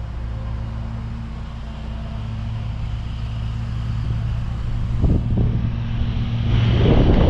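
Commercial mower engine running steadily at mowing speed, with wind gusting across the microphone and growing stronger over the last couple of seconds.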